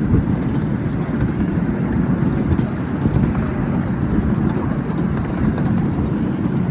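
Miniature ridable railway train running along its track with a steady low rumble.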